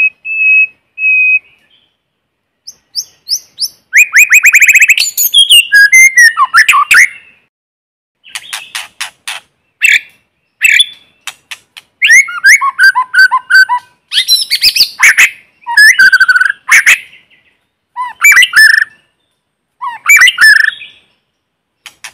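White-rumped shama singing its challenge song: a string of varied phrases of clear whistles, fast trills and harsh chattering notes, separated by short pauses, with nothing else audible between them. It opens with a held whistle note, and the densest, fastest trills come around the fourth to fifth second.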